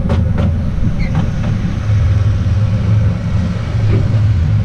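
Narrow-gauge Artouste tourist train running along the track, heard from on board: a steady low rumble of wheels on rail, with a few light clicks in the first second or so.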